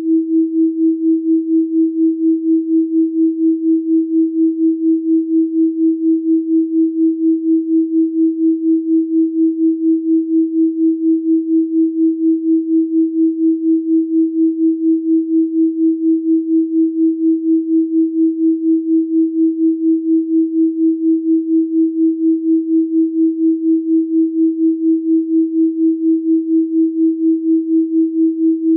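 Steady electronically generated 324 Hz pure sine tone, pulsing quickly and evenly in loudness.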